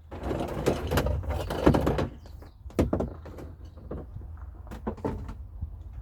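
Small generator's recoil starter cord pulled out, a rasping pull lasting about two seconds, followed by scattered clicks and knocks of handling.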